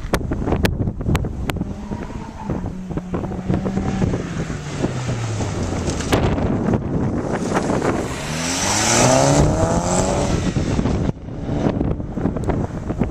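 Sports car engines at speed: one car's engine note falls as it passes, then a car accelerates by with rising engine pitch, loudest about nine seconds in. Wind buffets the microphone throughout.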